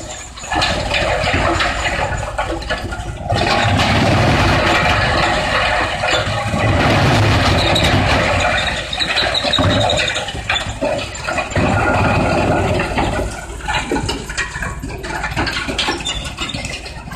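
Industrial wood pallet shredder running and chewing up wood: a loud, uneven grinding and crunching that surges and eases, with brief drops near the start and about three seconds in.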